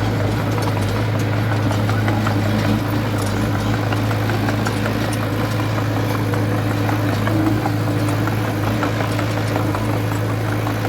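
Diesel engine of heavy construction machinery running steadily at an even speed, with a strong low hum and light scattered ticks over it.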